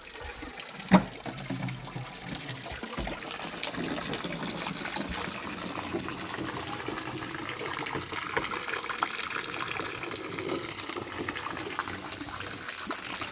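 Water running and splashing steadily, with a single sharp knock about a second in.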